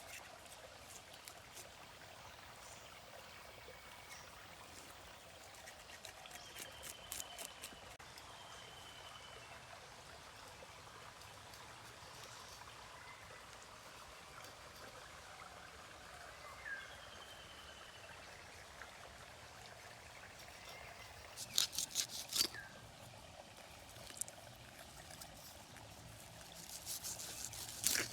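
Faint steady trickle of water, with a few short high chirps. Quick runs of sharp clicks or taps come about a quarter of the way in, twice more about 22 seconds in, and again at the end.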